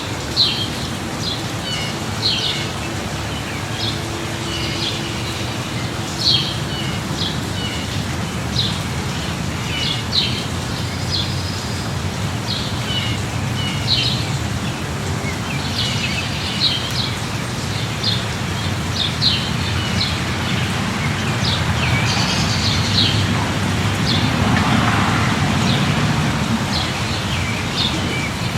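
Steady light rain with birds chirping short, repeated calls throughout. The rain noise swells for a few seconds in the second half.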